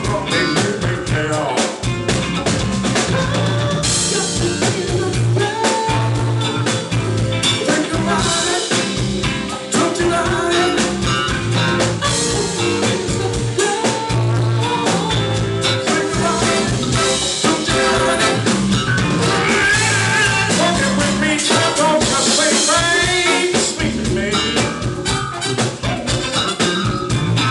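Band music with a drum kit keeping a steady beat and a voice singing over it.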